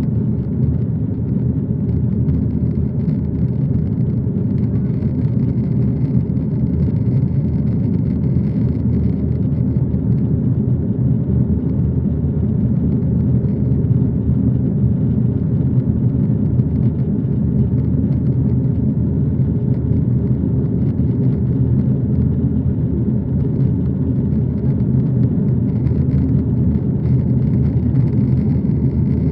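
Aeroplane engine noise: a steady low drone that holds unchanged without rising or falling.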